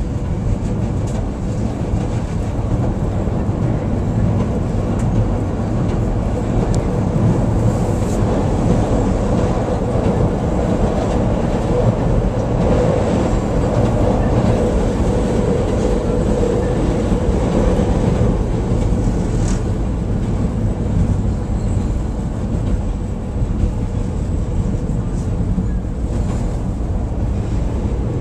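Chicago CTA Brown Line elevated rapid-transit car heard from inside, running along the elevated tracks just after pulling out of a station: a steady, loud rumble of wheels on rail, with a faint whine in the middle stretch and a few sharp clicks.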